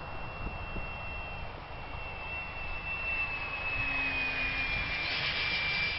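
Electric CZ Scimitar model aircraft making a low pass: a steady high whine that grows louder and drops slightly in pitch as it goes by, with a rush of air noise near the end.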